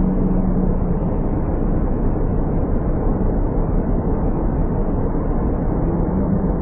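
Steady, loud rushing roar of river rapids, a dense rumbling noise without pauses.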